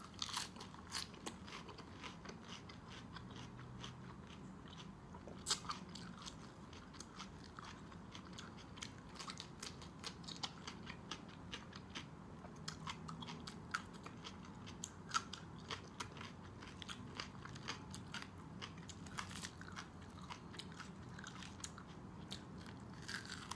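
Close-miked mouth sounds of chewing crisp raw vegetables, fresh lettuce leaves and cucumber: irregular crunches and wet chewing, with a few sharper crunches standing out.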